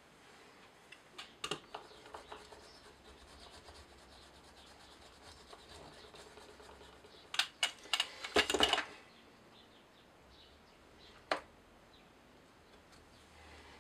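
Hand-printing with 3D-printed ink blocks and a brayer: a few light knocks and taps, then a quick run of sharp clicks and a short rubbing scrape about eight seconds in, and one sharp knock near the end.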